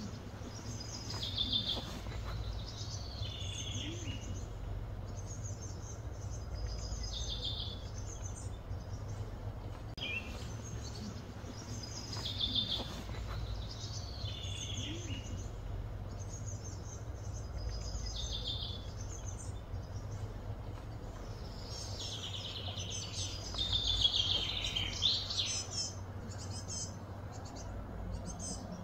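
Birds singing in short phrases repeated every two or three seconds, with a busier run of song about three-quarters of the way through, over a steady low hum.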